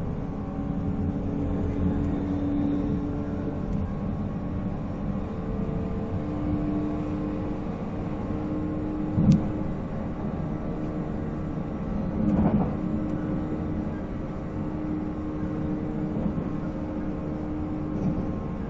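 Running sound aboard a JNR 485 series electric train: the hum of its MT54 traction motors with the rumble of wheels on rail. A sharp knock comes about nine seconds in, and a brief louder clatter about three seconds after that.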